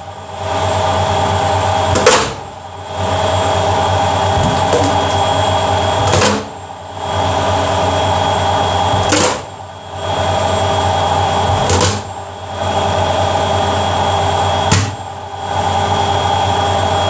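Front-loading washing machine spinning at high speed, about 900 RPM, with a steady motor hum. A sharp knock comes about every two to four seconds, six in all, each followed by a brief dip in the hum.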